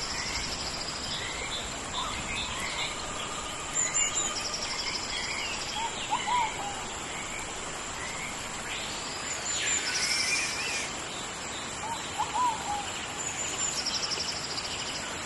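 Steady rain in a tropical rainforest. Birds call briefly every few seconds over it, and an insect keeps up a constant high-pitched drone.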